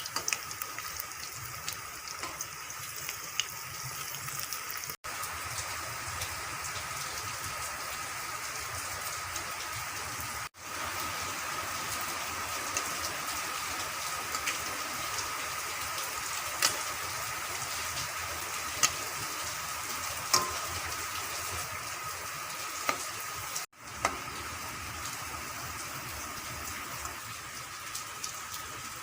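Banana-flower pakoras deep-frying in hot oil: a steady sizzle with scattered small crackles, breaking off for a moment three times.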